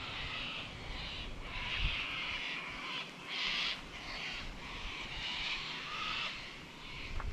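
Birds calling in a chorus of harsh, scratchy calls, coming in repeated bursts of about a second each with short breaks between.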